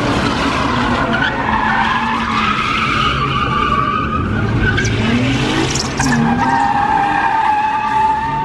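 Car tyres squealing in a long, wavering screech as a car is driven sideways in a burnout or donuts, its engine revving underneath with a rise in pitch about five seconds in.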